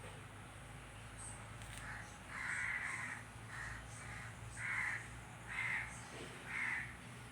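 A bird calling: a run of about six harsh calls, roughly a second apart, beginning about two seconds in.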